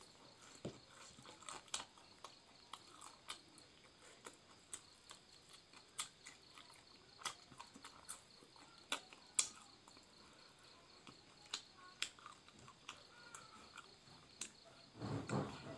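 Close-miked chewing and lip-smacking of a person eating rice and fish by hand: sharp, irregular wet clicks. Crickets chirp steadily behind, and a brief louder rustling noise comes near the end.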